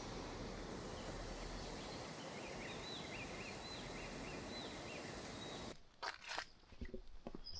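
Steady rushing outdoor background with a bird chirping a string of short, quick notes. About six seconds in, the rush cuts off abruptly and footsteps crunch on a hiking trail.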